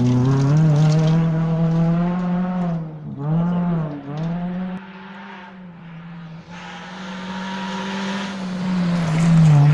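Rally car engines at full throttle on a special stage: one car pulls away with quick gear changes, its note fading about five seconds in, then another engine grows steadily louder as it approaches.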